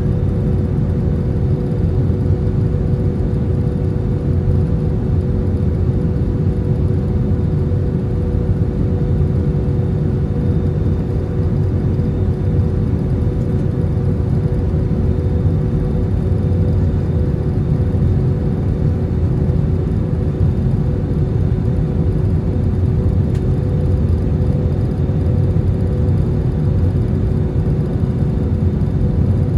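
Steady roar of jet engines and rushing air heard inside an Airbus A320's cabin on approach to landing, with a steady two-note hum running through it.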